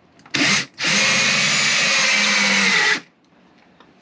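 Power drill boring a hole through a plug for a water-tank fitting: a short burst, then a steady run of about two seconds that stops abruptly.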